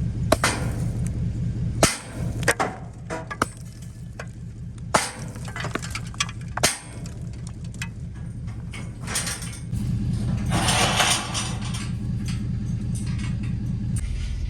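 An engine running steadily, with scattered sharp clinks and knocks over it.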